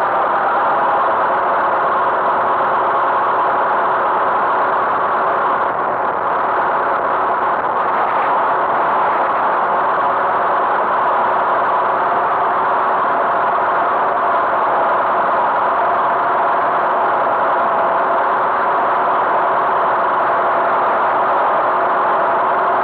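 Tractor engine running loud and steady at a constant speed.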